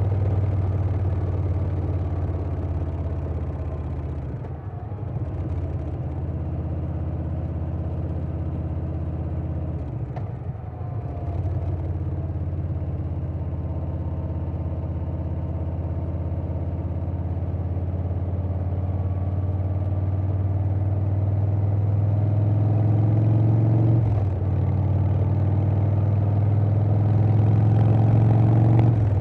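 2020 Harley-Davidson Softail Standard's Milwaukee-Eight V-twin running at road speed through a Vance & Hines Big Radius 2-into-2 exhaust, with wind noise. The engine note dips briefly about four, ten and twenty-four seconds in and builds steadily louder between them.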